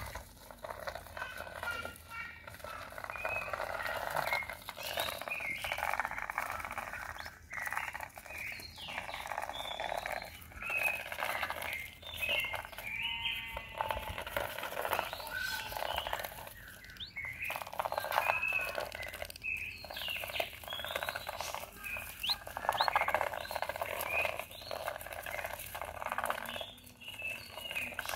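Young whistling ducks giving many short, high chirping whistles, scattered and overlapping, over an uneven scratchy rustle.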